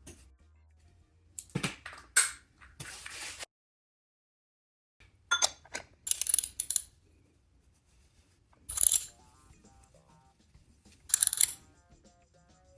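Metal tools and parts clinking and rattling in several short, separate bursts during motorcycle maintenance work, over faint background music.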